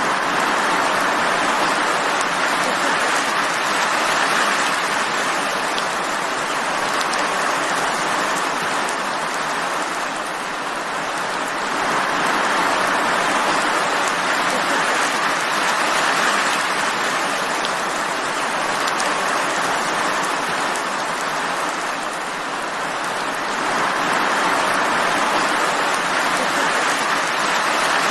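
Steady rain falling, an even hiss of drops that swells and eases gently about every ten seconds.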